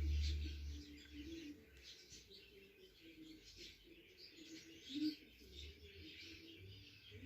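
Budgerigars chirping, with many short high chirps one after another, and a low rumble in the first second.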